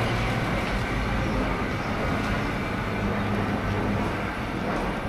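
Sydney Trains electric suburban train running past the platform: steady noise of wheels on rail with a low steady hum underneath.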